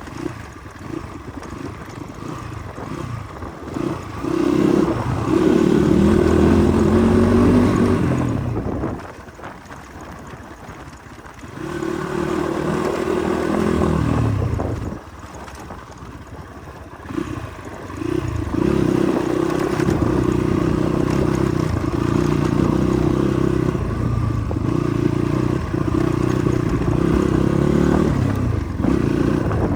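Motorcycle engine on a rough off-road track, revving in several bursts of throttle with quieter spells between; the longest stretch of steady running is in the second half.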